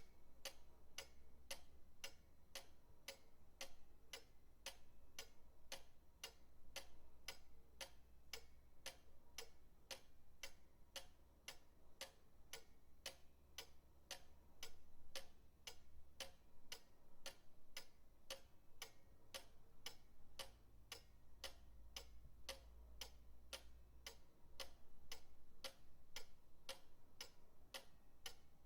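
Pendulum clock ticking steadily and quietly, about two ticks a second, over a faint low rumble.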